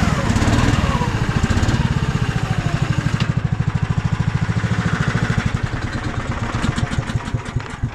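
Snowmobile engine running at low revs, an even low pulsing that dies down near the end.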